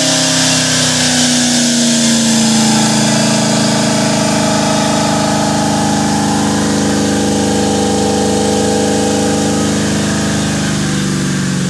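Twin-turbocharged car engine revved up and held at steady high revs for about eleven seconds, the pitch sagging slightly, then starting to drop as the throttle is let off at the end. The turbo compressors are barely spinning, which the owner takes for either two bad turbos or just how the setup is.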